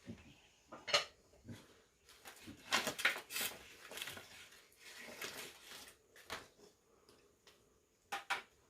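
Scattered knocks and clinks of hard objects being handled, with a denser stretch of scraping and clattering in the middle.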